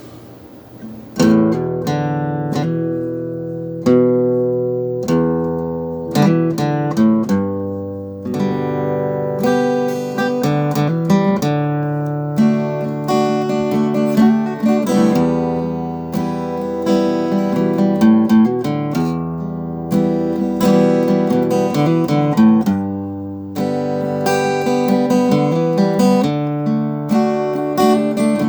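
Acoustic guitar playing chords, starting about a second in.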